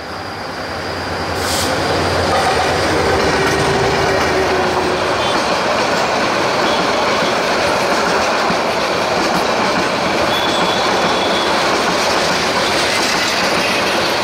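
A Bangladesh Railway diesel locomotive passes close by, its low engine drone heard in the first couple of seconds. It is followed by the loud, steady rolling rumble and rattle of the intercity passenger coaches' wheels on the track as the train goes by.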